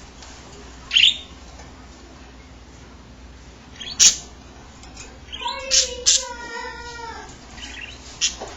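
Pet budgerigars chirping: a short chirp about a second in, a sharp click about four seconds in, and a longer run of pitched, wavering sounds around six seconds in.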